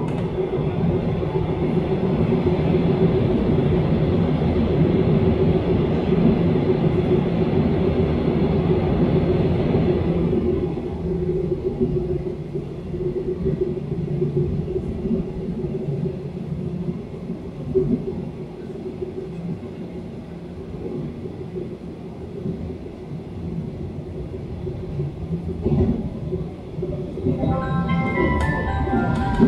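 Taiwan Railways EMU700 electric multiple unit running, heard inside the carriage as a steady rumble of wheels and motors. About ten seconds in, the higher hiss falls away and a lower rumble is left. Near the end, a short run of chime-like musical tones sounds over it.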